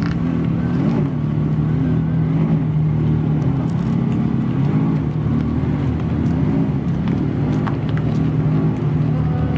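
A car engine running at a steady idle, its note wavering gently up and down a little more than once a second, without any sharp revving.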